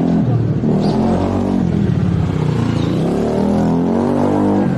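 Car engine running while the car drives, its pitch rising and falling.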